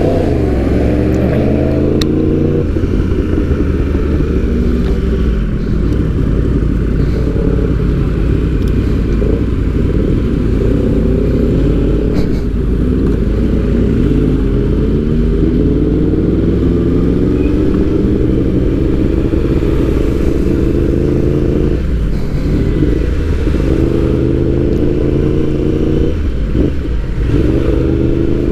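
Motorcycle engine running under way, its pitch climbing slowly as it pulls, with two brief drops near the end as gears change.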